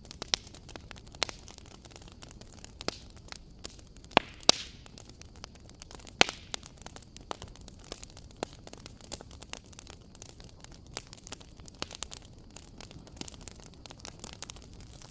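Wood fire crackling: irregular sharp pops and snaps over a soft steady hiss, with a few louder pops at about four and six seconds in.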